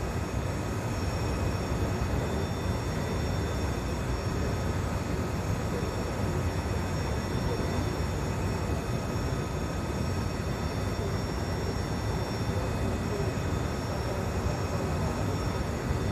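Engine running steadily on a test run, a constant low rumble with no change in speed.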